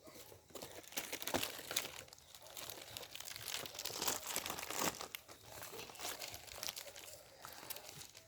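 Dry leaves and brush crunching and crackling irregularly, with many small snaps, as they are trodden on and handled while firewood is gathered.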